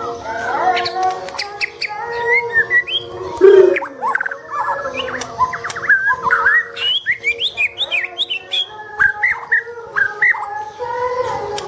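Several caged songbirds singing and chirping at once, a dense overlap of quick, varied whistled notes, with a louder, lower call about three and a half seconds in.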